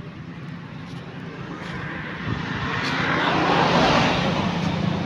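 A road vehicle passing close by, its noise swelling to loudest about four seconds in and then easing off, over the steady low hum of an engine running.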